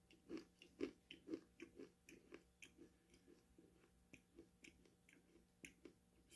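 Close-up chewing of crunchy food, a steady run of chews about two to three a second. The chews are strongest in the first two seconds and softer after that.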